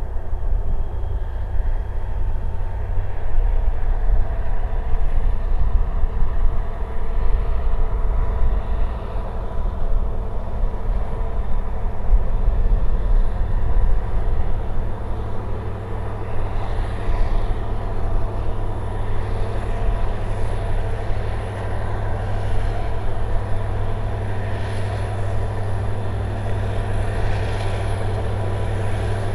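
EMD SD45T-2 diesel locomotive running steadily as it hauls its train, its 20-cylinder two-stroke engine giving a constant drone with a steady whine, over a low rumble.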